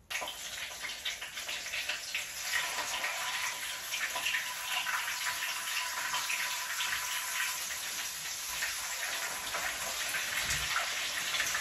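Pieces of turkey sizzling and crackling in hot oil in a frying pan on a gas stove, a steady hiss.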